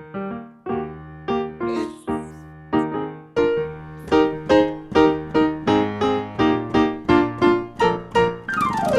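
Piano playing a melody over chords. The notes start sparse and settle into about two or three a second from about four seconds in, with a quick downward run near the end.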